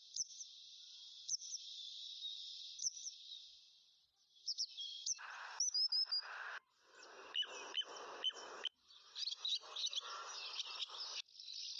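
Small birds chirping and calling over a dense, high, steady chorus. From about five seconds in, bursts of broader, lower noise come and go under the calls.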